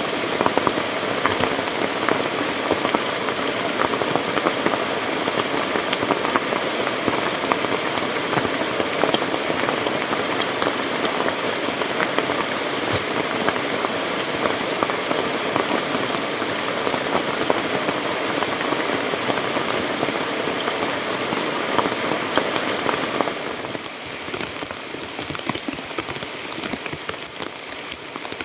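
Steady water noise, dense with many small taps and clicks, from heavy rain or a fast-running stream. It drops noticeably quieter a little before the end.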